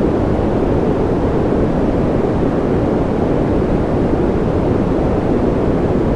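Steady, unbroken white-noise track, deep-toned, with most of its weight in the low end and little hiss, loud and even throughout.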